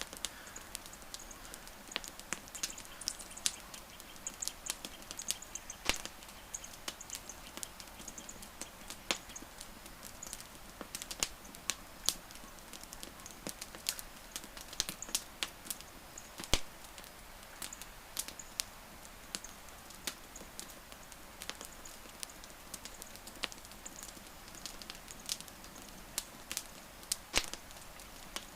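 Wood fire crackling, with irregular sharp pops and snaps of burning wood over a steady hiss.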